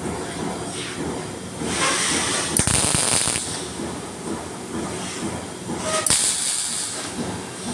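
CO2 (MIG) welder striking short tack welds: two brief bursts of crackling, hissing arc, about three and a half seconds apart, over a steady background noise.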